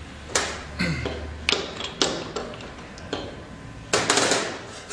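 Sharp clicks and taps of the dispensing handles being set into place on an ice cream machine's freezer door: about six knocks at irregular intervals, with a quick cluster near the end.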